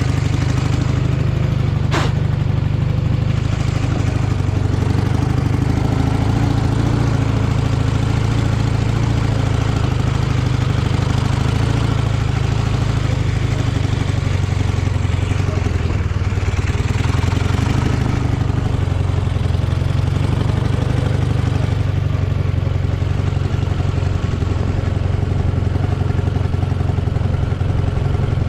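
Dnepr MT-11 sidecar motorcycle's flat-twin engine running steadily under way, at a fairly even pitch throughout. There is a brief sharp click about two seconds in.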